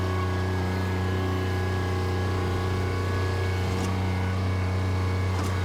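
Bobcat tractor engine running steadily at a constant speed, a deep even hum with no change in revs.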